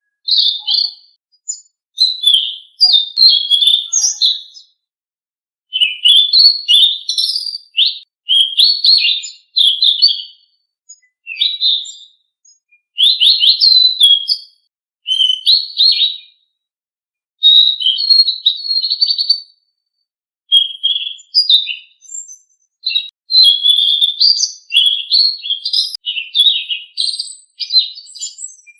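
Selendang biru songbird singing fast, high chirping, twittering phrases of one to three seconds, separated by short pauses.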